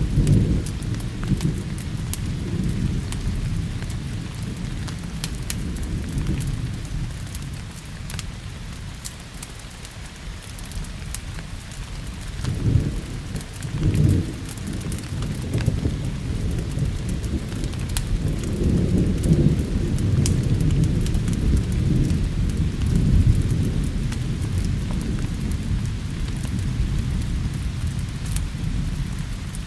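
Steady rain with rolling thunder. The thunder swells right at the start, rumbles twice in quick succession about halfway through, and rolls on longer a little later. Scattered sharp ticks sound over the rain hiss.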